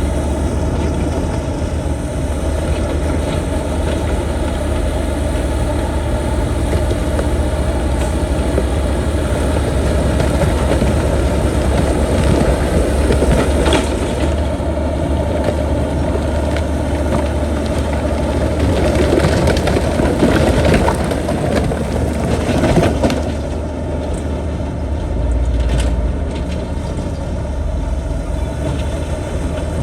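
Bulldozer's heavy diesel engine running steadily, with two louder stretches of rough grinding noise in the middle.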